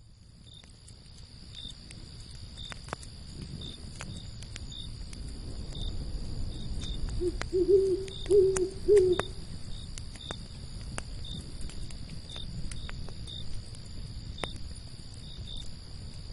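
Night campfire ambience: a fire crackling with scattered sharp pops over a low rumble, and a steady chorus of crickets, fading in over the first few seconds. About seven seconds in an owl hoots four times in quick succession, the loudest sound.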